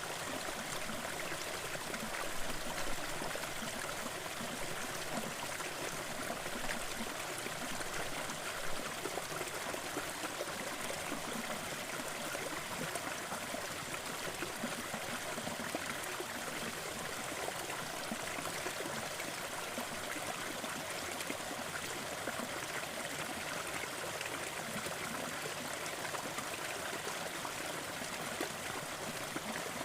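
Small forest waterfall and stream water splashing and trickling steadily.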